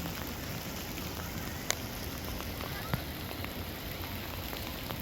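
Open-air ambience at a soccer field: a steady noisy hiss with faint voices, broken by two sharp knocks about a second apart, a little under two seconds in and again near three seconds.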